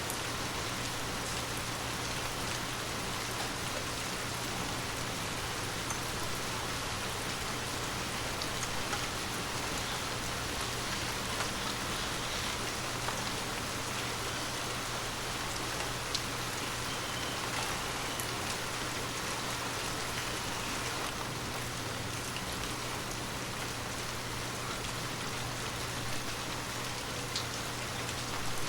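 Steady heavy rain, an even hiss of falling water with scattered sharper drop ticks, over a faint low steady hum.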